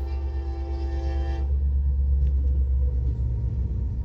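Norfolk Southern diesel freight locomotives passing close: the horn sounds a chord that cuts off about a second and a half in, over the heavy low rumble of the engines, which grows louder as the units go by.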